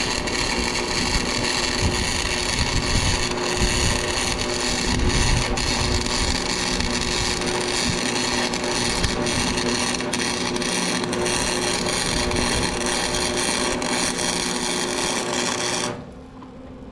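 Wire-feed (MIG) welding arc laying a continuous bead on a repair, a steady crackling sizzle with a faint hum under it, which cuts off suddenly about sixteen seconds in.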